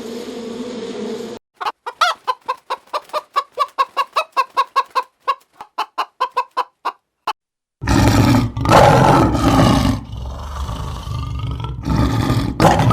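A steady buzz that cuts off, then a chicken clucking in a fast, even run of about four short clucks a second for around five seconds. After a brief gap, a loud, rough animal call takes over, lasting several seconds.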